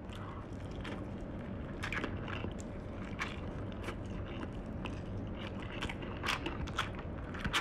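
A person chewing and biting a mouthful of chicken close to the microphone, with irregular small clicks and smacks.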